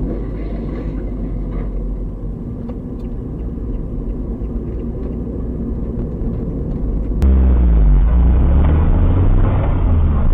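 Car engine and road noise heard from inside a moving vehicle, a steady low rumble. About seven seconds in it switches abruptly to a louder, deeper rumble whose engine pitch slides up and down.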